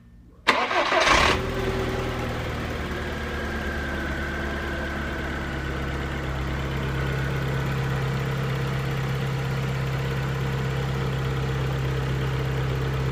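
Skoda Octavia's 1.6-litre eight-valve AEH four-cylinder petrol engine cranks and catches about half a second in, then idles steadily and evenly.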